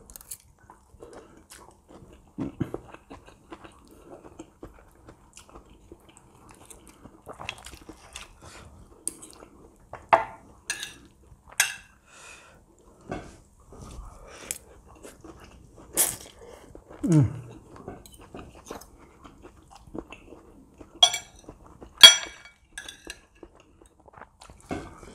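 A person chewing food close to a clip-on microphone, with a knife and fork now and then clicking and scraping on a plate; a handful of sharp clicks come in the second half.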